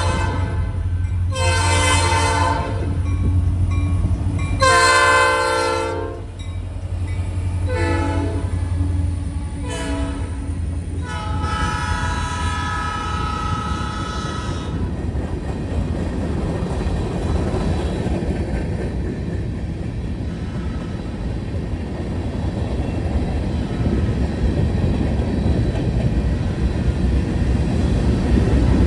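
Freight train's diesel locomotive sounding its multi-tone air horn in the long, long, short, long pattern of a grade-crossing signal, over the low hum of its engine. After the horn the train rolls past with wheels clicking over rail joints, growing louder near the end.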